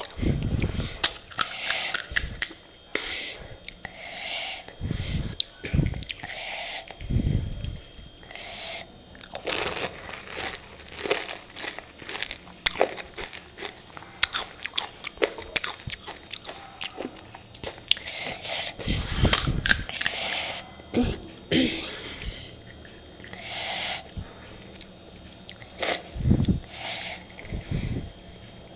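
Close-up chewing of pani puri: the crisp, hollow puri shells crunch and crackle with each bite, in an irregular run of wet crunches.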